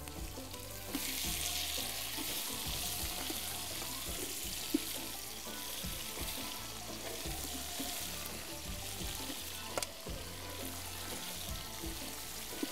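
Boiled meat pieces and sliced onions frying in oil in a large aluminium pot, a steady sizzle that gets louder about a second in as the meat goes in, with an occasional short knock.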